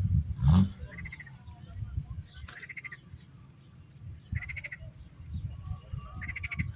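Short rattling animal calls, each about a third of a second long, repeat every couple of seconds over a low rumble. A louder, sweeping call comes about half a second in.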